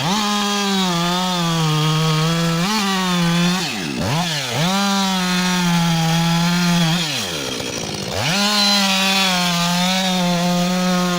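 Chainsaw cutting wood at full throttle, its pitch sagging slightly under load. The engine eases off and revs straight back up twice, about four seconds in and again around seven seconds.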